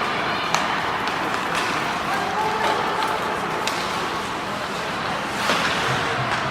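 Ice hockey rink during play: a steady wash of crowd and rink noise, with a handful of sharp knocks from sticks and puck scattered through.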